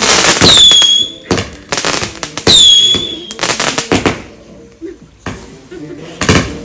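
Fireworks going off: about five loud bangs with crackle, three of them carrying a short high whistle that drops slightly in pitch and then holds.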